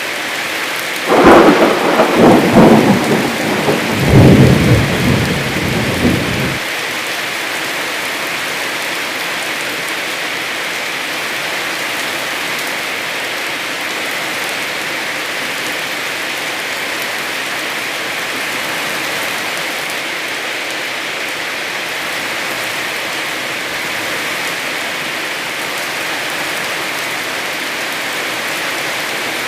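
Heavy rain falling steadily, with a loud thunderclap about a second in that rumbles on for about five seconds and then cuts off suddenly.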